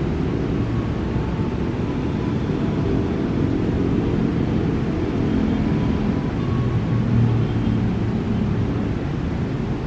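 Steady low rumble of a freight train of flat wagons rolling past on the station tracks. It swells slightly about seven seconds in, as a KRL electric commuter train (ex-JR 203 series) moves by on the near track.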